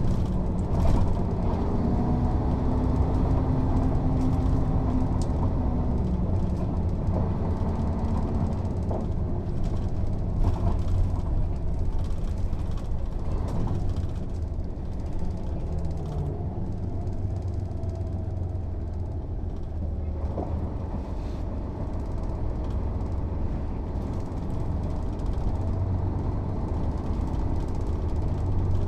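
Mercedes-Benz O 407 city bus under way: its inline-six diesel engine and drivetrain give a steady low drone. A pitched whine is present for the first several seconds before fading out, with a few light rattles scattered through.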